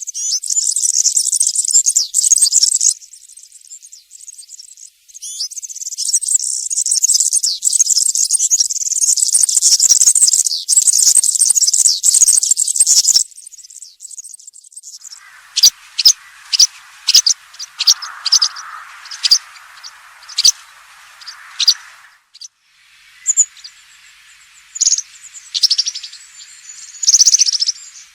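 European serin singing its fast, high-pitched jingling song in long phrases, breaking about halfway into a series of short sharp chirps over a faint lower hiss before the song resumes.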